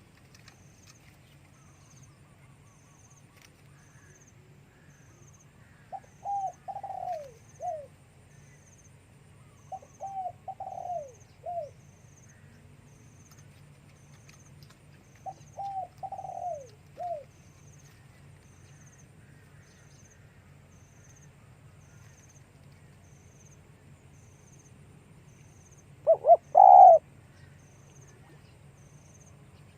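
Spotted dove cooing in three phrases, each a short run of falling coo notes, spaced a few seconds apart, then a louder, shorter burst of sound near the end.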